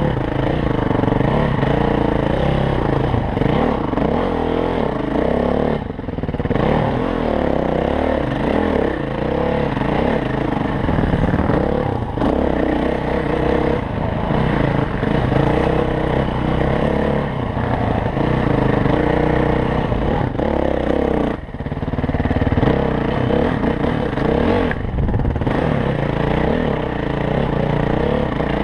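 Dirt bike engine being ridden hard, its revs rising and falling without pause, with two short lulls: one about six seconds in and one about two-thirds of the way through.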